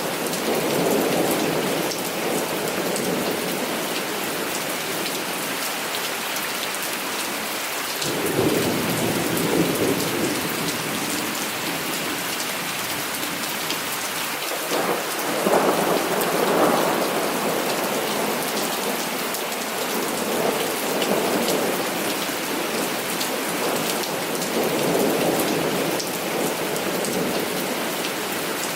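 Heavy rain falling steadily, with thunder rumbling in rolls every few seconds; the loudest roll comes about halfway through.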